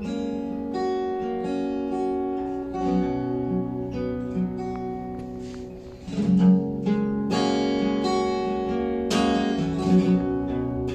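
Acoustic guitar playing a slow introduction of strummed and held chords, with fresh strums about six, seven and a half and nine seconds in.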